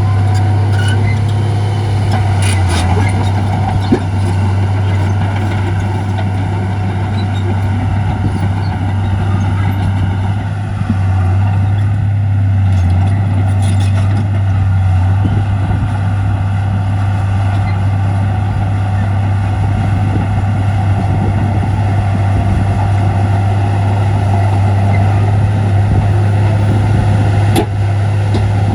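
Heavy diesel engine of earthmoving equipment running steadily with a deep, constant hum, with a few brief sharp knocks, one near the end.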